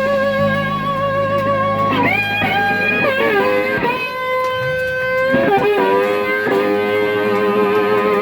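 Electric guitar playing a lead line of long held notes with vibrato and string bends over a steady bass.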